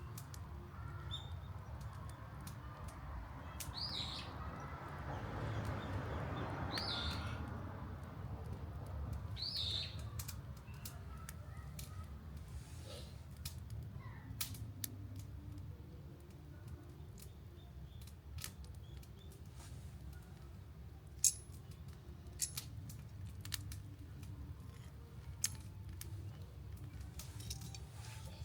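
Wood campfire crackling, sharp pops scattered through it over a low steady rumble. A few short high chirps come in the first ten seconds.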